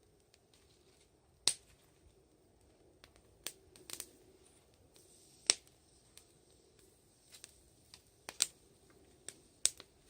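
Wood fire crackling: sharp, irregular pops and snaps from the burning firewood over a faint hiss, the loudest pops about a second and a half in, at five and a half seconds, and twice near the end.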